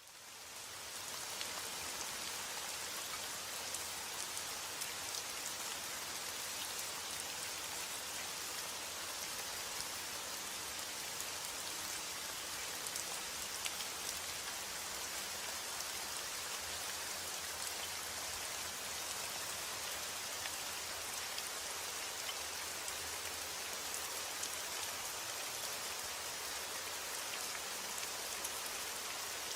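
Steady rain falling, with fine pattering drops on a surface; it fades in over the first second or so.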